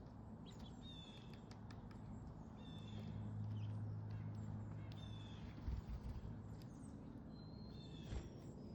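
Small backyard songbirds giving short, high chirps every second or so at a feeder, over a steady low hum that grows louder in the middle. Two soft low knocks come near the end.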